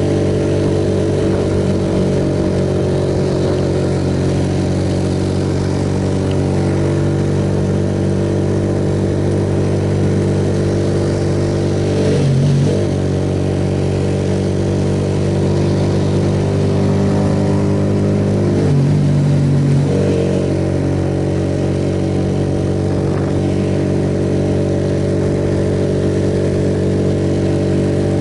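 Suzuki Yes single-cylinder motorcycle engine running steadily under way, heard from on the bike with a steady rush of noise over it. Twice, about twelve and nineteen seconds in, the engine note shifts briefly, as with a gear change or a change of throttle.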